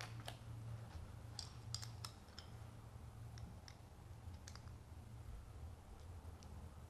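Scattered small clicks and taps of mount hardware being handled and tightened, more of them in the first couple of seconds, over a low steady hum.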